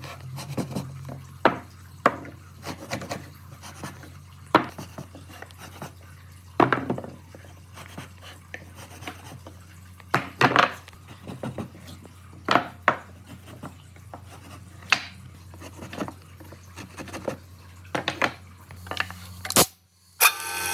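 Irregular knocks, taps and clatter of tools and wood being handled, a sharp knock every second or two, over a steady low hum.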